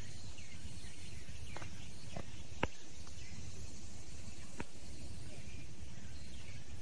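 Steady low rumble and hiss with a few short, sharp clicks, the loudest about two and a half seconds in.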